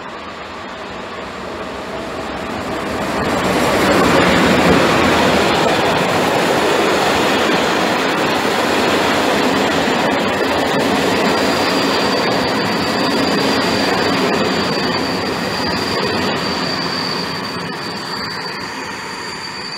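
PKP EU07 electric locomotive and its passenger coaches running past on the near track: the rumble of wheels on rail builds over the first few seconds, stays loud while the coaches go by, then eases off near the end. A high, steady squeal from the train joins about halfway through.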